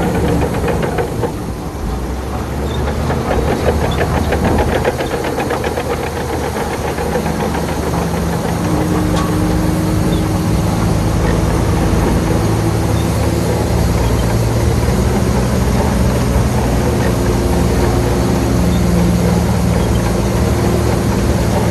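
Shantui bulldozer's diesel engine running, with a fast clattering firing rhythm in the first few seconds, then a steadier drone whose pitch steps up and down a few times.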